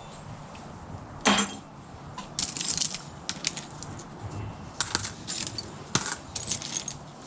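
Small dug-up metal junk being sorted by hand, clinking and rattling in several short bursts of sharp clicks.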